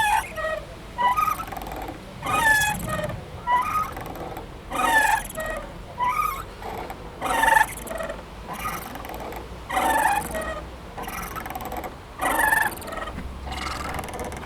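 Playground swing squeaking rhythmically as it swings back and forth, a louder squeak about every two and a half seconds with a fainter one between.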